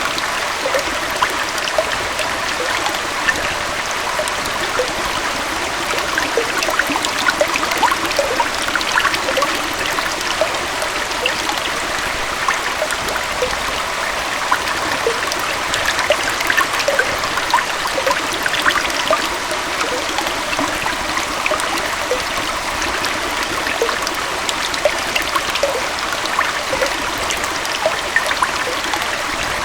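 A gentle waterfall on a stream: water flowing in a steady, even rush, flecked with many small splashes and gurgles.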